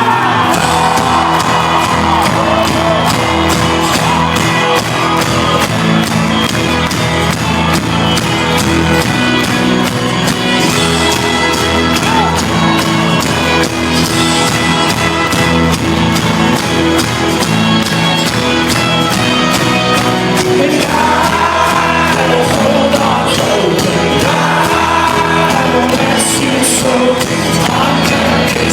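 Live folk-rock band playing an instrumental stretch of the song, loud and driving with a fast, even rhythm. Voices sing and shout over it, strongest near the start and again towards the end.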